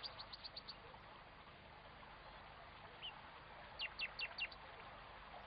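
Small bird chirping faintly. A quick run of short high chirps comes at the start, one chirp follows about three seconds in, and four short chirps falling in pitch come near the end.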